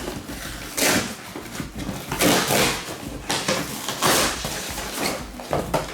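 A cardboard box and its paper packing being pulled and torn open, with about four loud rustling, scraping bursts.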